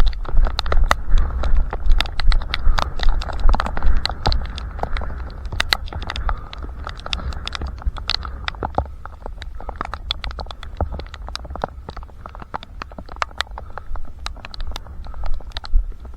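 A runner's footsteps slapping the ground at about three strides a second, over a steady low rumble of wind on a head-mounted camera. The footfalls go softer and less even for several seconds in the middle, then turn sharp and regular again near the end.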